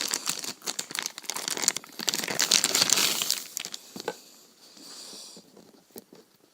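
Packaging being crinkled and torn open by hand, a dense crackling that dies down a little after three seconds, leaving a few light handling clicks.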